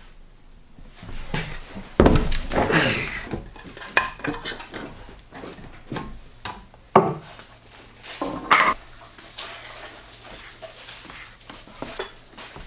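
Hard objects being handled and set down: irregular knocks and clatters, with the sharpest knocks about two seconds in and again about seven seconds in.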